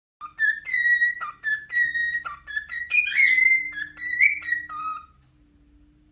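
A pet bird whistling a quick string of short notes, some sliding up or down in pitch, for about five seconds before it stops.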